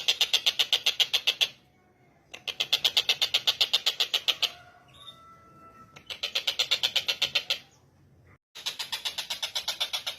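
Tengkek buto kingfisher giving its loud, rapid rattling trill, about seven notes a second, in four bursts of a second and a half to two seconds with short pauses between.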